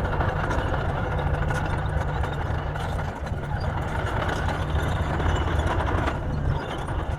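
Heavy earthmoving machine's engine running steadily with a low rumble.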